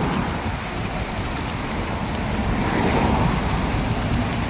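Steady rushing of a waterfall, with wind gusting on the microphone.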